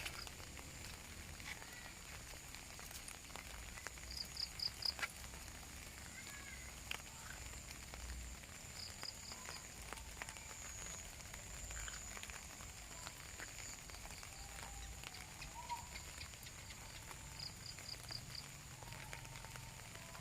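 Light rain falling, with scattered drips, under a steady high-pitched whine and, three or four times, quick runs of four or five chirping calls from animals.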